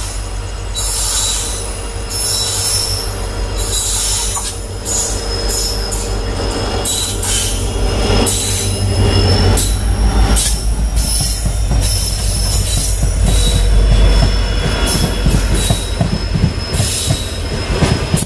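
A diesel-hauled passenger express passing on the next track. The locomotive's low engine rumble builds as it draws level about ten seconds in, with high screeching from the wheels and a rhythmic clatter of the coaches' wheels over the rail joints, loudest near the end.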